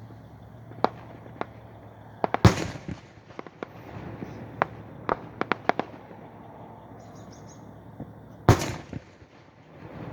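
Fireworks display: two big aerial shells burst with loud booms, one about two and a half seconds in and one near the end, with a scatter of sharper, smaller cracks between them.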